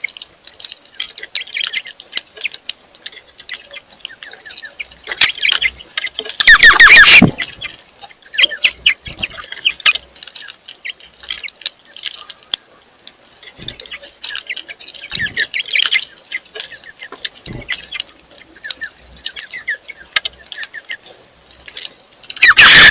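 Birds chirping and calling over and over, with a loud harsh squawk about seven seconds in.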